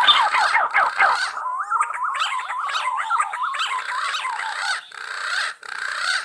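Green pigeons (punai) calling: overlapping wavering whistles with quick rising and falling glides, densest and loudest in the first second.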